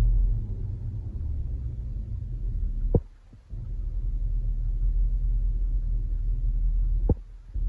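2011 Land Rover LR4's 5.0 V8, warm and just started, idling as a steady low rumble. The rumble briefly drops out twice, each time just after a sharp click.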